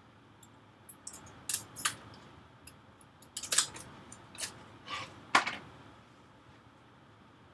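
A string of sharp clicks and clacks from small hard parts and tools being handled inside an opened iMac, bunched between about one and five and a half seconds in.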